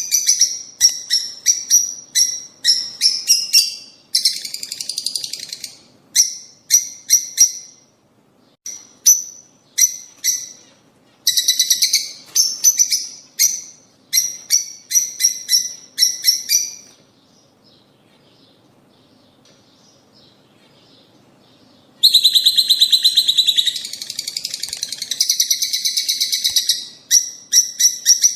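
Lovebirds, peach-faced and Fischer's, calling: a dense run of sharp, high chirps mixed with fast, rattling chatter. The calling drops away for about five seconds past the middle, then resumes with a long spell of loud chatter.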